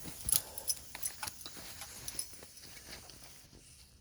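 A husky moving about restlessly, with a scatter of light clicks, taps and jingles.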